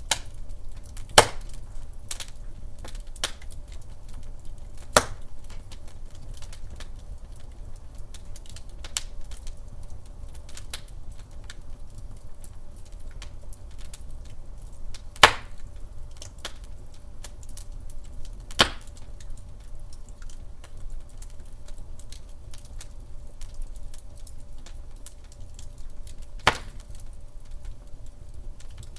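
Wood fire crackling in a fireplace: a steady patter of small crackles over a low rumble, with about five loud, sharp pops of burning logs spread through it.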